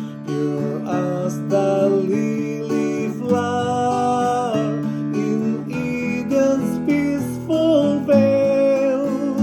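A hymn played on a strummed acoustic guitar, with a voice singing a slow melody of held notes over it.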